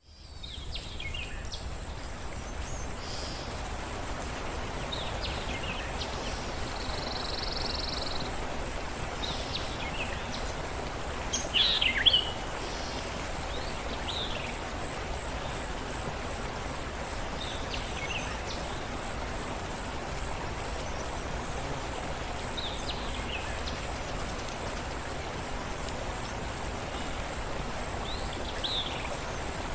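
Steady water ambience with birds calling now and then: short chirps that slide downward in pitch, every few seconds, the loudest about twelve seconds in. The sound fades in at the very start.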